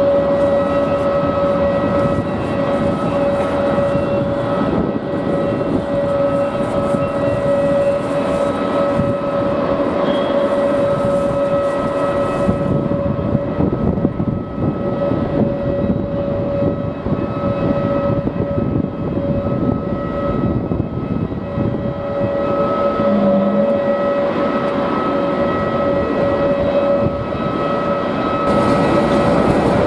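Jet airliner engines running steadily: a whine of several held tones over a rough rumble, with strong wind buffeting the microphone.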